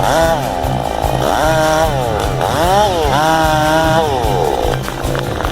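Large chainsaw revving up and down several times in the cut, then dying away a little before the end.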